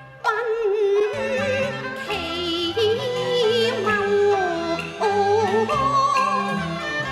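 Cantonese opera singing: a solo voice with heavy vibrato comes in about a third of a second in and winds up and down in a long melismatic line over instrumental accompaniment.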